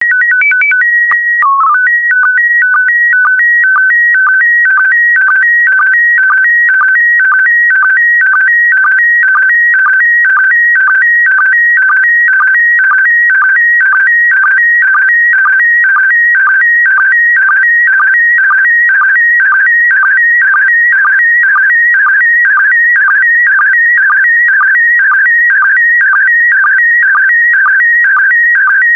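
Slow-scan TV (SSTV) transmission in PD120 mode: it opens with a short header of held calibration tones, then settles into a rapid warbling of image-line tones that repeats about twice a second.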